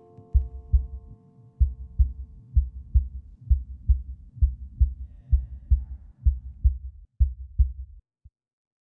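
Low, muffled thudding pulse, about two beats a second like a heartbeat, closing out a piece of music. The last held notes fade away in the first second or so, and the beats stop shortly before the end.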